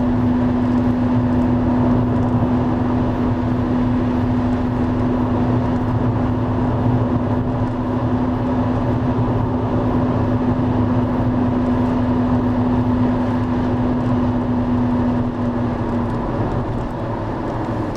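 Steady rushing roar of the Driva river in a major flood, with a steady mechanical hum over it, like an engine running nearby, that fades away near the end.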